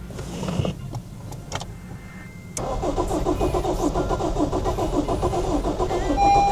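Honda Civic's starter motor cranking the engine in a fast, even rhythm from about two and a half seconds in, without the engine catching: the car won't start, which the owner suspects is down to airbag crash data not being reset properly.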